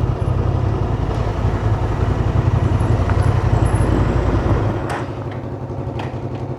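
Vehicle engine running with a deep, steady rumble that eases off about three-quarters of the way through, settling to a quieter, evenly pulsing run.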